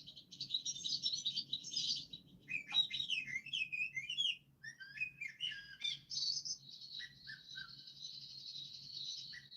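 Small birds chirping and twittering: a fast, dense chatter for about two seconds, then separate warbling notes, then a long high trill from about six seconds in with a few short falling notes under it.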